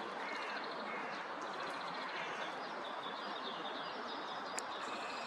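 Small birds chirping and twittering faintly over a steady outdoor background hiss, with a single sharp click about four and a half seconds in.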